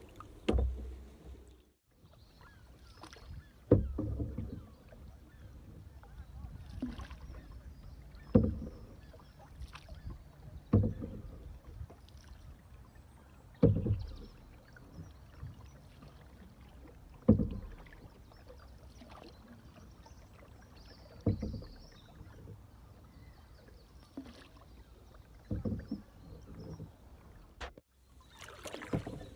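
Canoe paddling: a paddle stroke enters the water every two to four seconds, each a short, low splash over faint water and wind noise.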